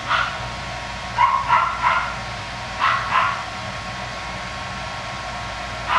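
Coton de Tulear puppies giving short, high yips as they play, about seven in small clusters of two or three, over a steady background hum.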